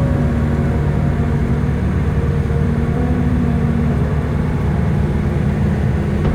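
Chevrolet Chevette driving along the road, its engine and tyre noise running steadily as heard from inside the car.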